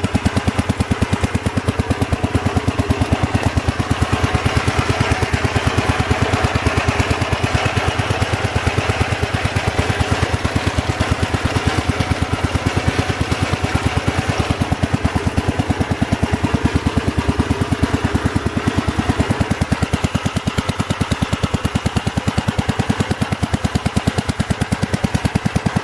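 Gravely walk-behind tractor's single-cylinder engine running steadily, its firing pulses fast and even. It gets a little brighter and louder for a stretch about four to fourteen seconds in.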